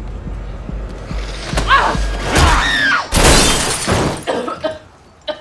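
Film soundtrack with music and a low rumble, a high wavering cry about one and a half seconds in, then a loud crash with a shattering sound about three seconds in.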